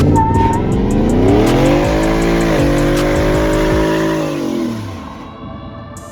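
A vehicle engine revving up, held at high revs for about two seconds with a brief dip, then dropping back, over background music with a steady beat.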